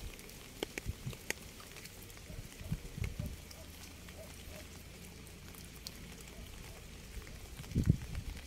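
Rain falling, with single drops landing close by as sharp ticks over a steady patter and a few low thuds, the loudest near the end.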